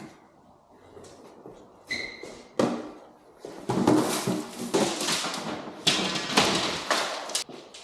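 Rustling, scraping and knocking of junk, boxes and trash being handled, in a run of noisy bursts, with a short high squeak about two seconds in.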